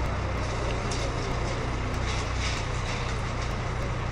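A steady low mechanical rumble with a hiss over it, a little hissier in the middle.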